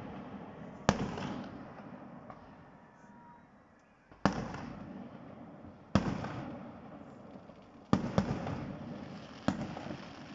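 Aerial firework shells bursting at irregular intervals: six sharp bangs, two in quick succession about eight seconds in, each trailing off in a long rolling echo.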